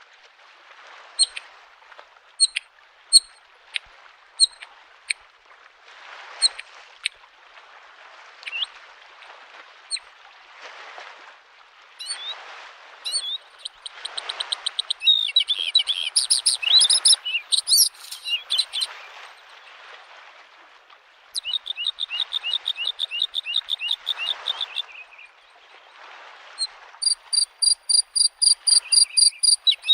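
Bluethroat singing: sharp ticks and clicks at first, then fast runs of rapidly repeated high notes. Underneath, gentle waves lap at the shore, swelling and fading every couple of seconds.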